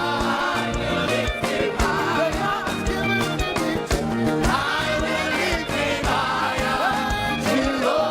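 Live gospel praise music: voices singing together over a band with a steady drum beat.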